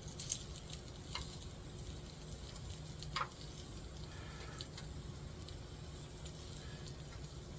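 Thin-sliced pork belly (daepae) sizzling faintly in a pan over a low steady hum, with a few sharp clicks, one of them about three seconds in.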